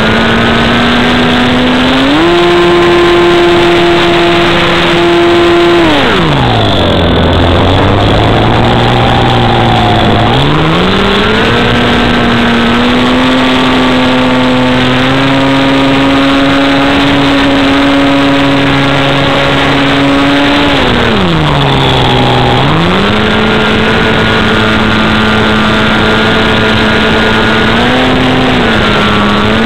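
Radio-controlled model plane's motor running under changing throttle, with a rushing noise underneath. Its pitch steps up about 2 s in, falls sharply to a low drone about 6 s in, climbs back around 10 s, and dips and recovers again a little past 20 s.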